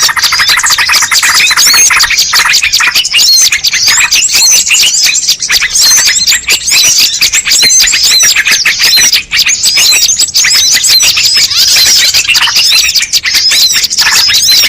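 Bird-lure recording: a dense, loud chorus of many small birds chirping and twittering at once, the high calls overlapping without a break.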